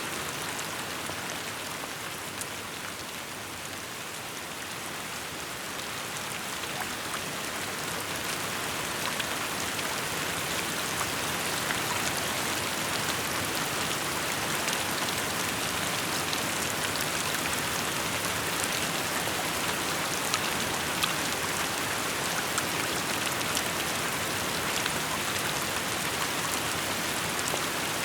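Steady rain falling, a dense hiss with many small drop ticks, easing a little for a few seconds early on and then filling back in.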